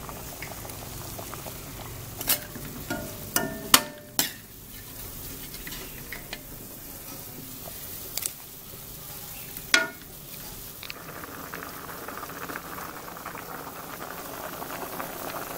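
A pot of chicken and roasted bamboo-shoot curry cooking on the stove: a metal spoon knocks and clinks against the pot about seven times as it is stirred, over a low sizzle. In the last few seconds a steady bubbling sets in as the curry comes to the boil.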